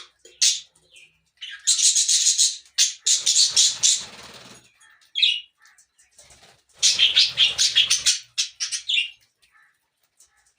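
Small Australian parrots chirping and squawking in bursts, with two longer bouts of loud chatter about two and seven seconds in, mixed with wing flapping.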